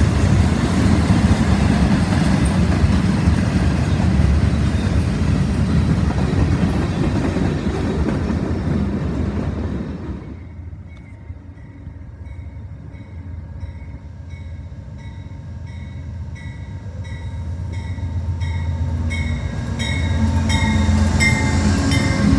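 A CSX freight train of tank and coil cars rolls past close by, loud and steady. About ten seconds in the sound cuts to a quieter scene: an Amtrak passenger train approaches and passes, growing steadily louder, while a short ringing tone repeats about every two-thirds of a second.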